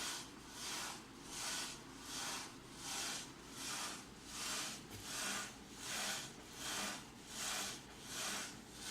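Y-axis of a homemade CNC laser moving back and forth in a test run, giving an even rushing swish that swells and fades about every three-quarters of a second, about a dozen times.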